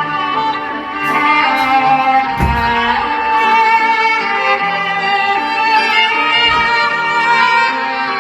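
A Samsung Galaxy S24 ringtone playing: a melody of held, string-like notes with a low thud twice.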